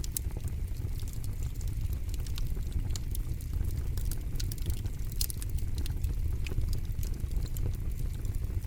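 Campfire crackling: many sharp, irregular pops and snaps over a steady low rumble of the burning fire.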